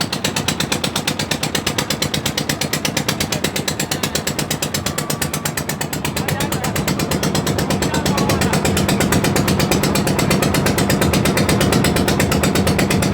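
Boat's engine running steadily with a fast, even chugging beat, growing a little louder about halfway through.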